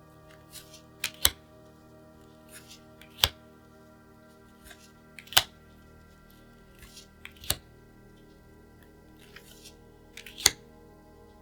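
Plastic card sleeves and their packaging being handled. A sharp plastic click comes about every two seconds, five times in all, each with a light rustle just before it.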